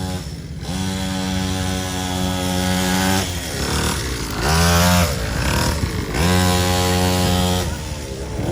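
Small 50cc two-stroke kids' dirt bike engine revving: the throttle is held open for a couple of seconds, eases off, blips briefly near the middle, then holds open again for about a second and a half before dropping back.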